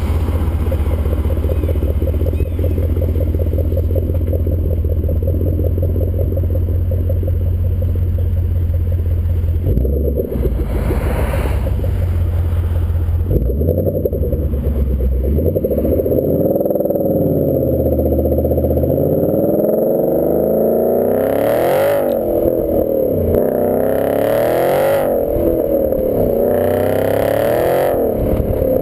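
2014 Ford Mustang GT's 5.0 V8 running through a Roush axle-back exhaust, first holding steady at low revs, then from about halfway revving up and down repeatedly, with several sharp climbs near the end.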